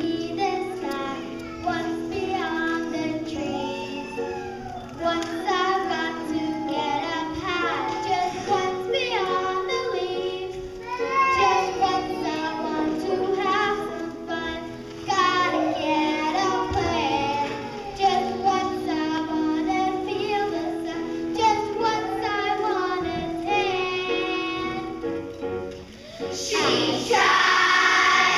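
Children singing a song together over an instrumental backing, getting brighter and fuller in the last couple of seconds.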